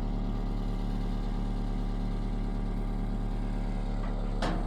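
A machine's motor running steadily with a low, even hum, and a short sharp knock near the end.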